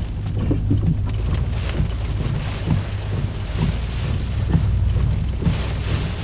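Hurricane-force wind and heavy rain beating on a moving vehicle: a steady deep rumble of wind buffeting with the hiss and patter of driving rain.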